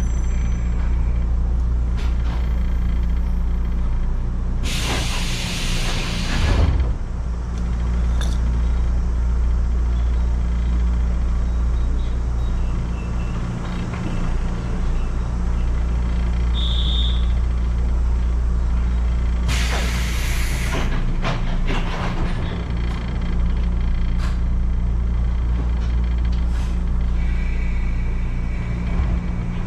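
A train stands at a station platform with a steady low hum from its equipment. Two loud bursts of compressed air hiss out, about five seconds in and again about twenty seconds in. A short high beep sounds between them.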